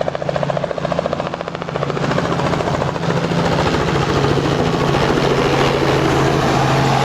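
Helicopter coming in, a rapid, steady rotor beat over a low engine drone. It grows louder about two seconds in and then holds steady.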